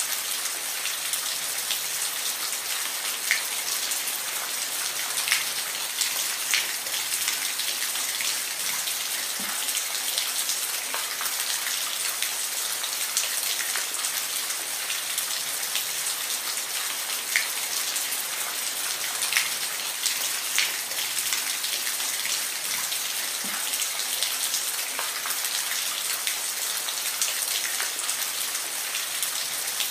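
Steady rain falling, an even hiss with distinct raindrops ticking on a hard surface scattered irregularly throughout.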